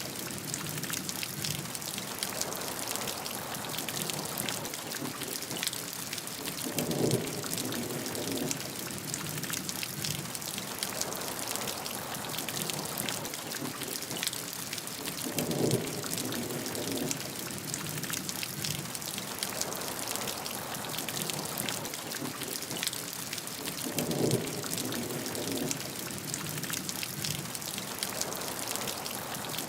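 Steady heavy rain, a dense patter of drops on a hard surface. A short low swell rises out of it about every eight and a half seconds, three times.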